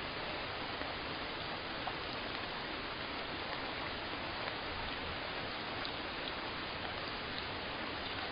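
Steady rainfall, an even hiss with a few faint drops ticking now and then.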